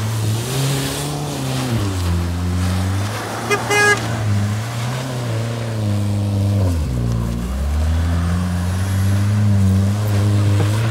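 Turbocharged Chrysler PT Cruiser's four-cylinder engine revving hard as the car spins donuts on dirt and grass, the revs rising and falling over and over. The revs drop sharply about seven seconds in, then climb again.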